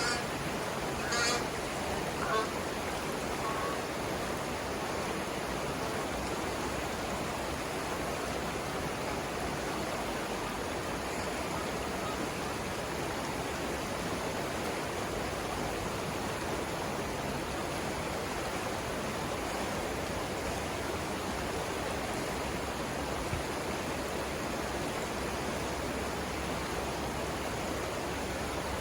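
Steady rush of river water over the Savannah River rapids. A few short bird calls come near the start.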